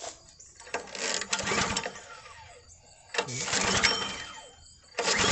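Small Kohler 6.5 hp 196 cc single-cylinder engine on a gas log splitter, cranked over by its recoil pull-starter in repeated surges of mechanical noise without catching, as fuel is worked out of the flooded cylinder.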